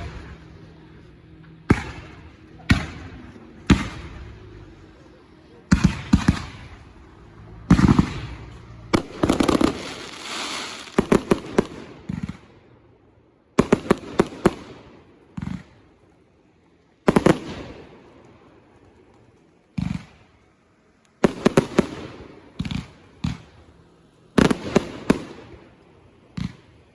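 Consumer fireworks going off: sharp bangs, often in quick clusters of two to four, every second or two. About nine seconds in, a longer stretch of hissing crackle runs for roughly three seconds.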